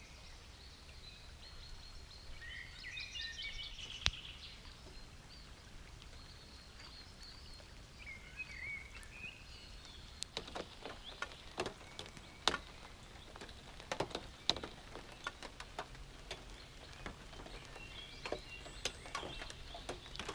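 Faint birds chirping and singing over a low steady outdoor background. Scattered sharp clicks and taps come through the second half.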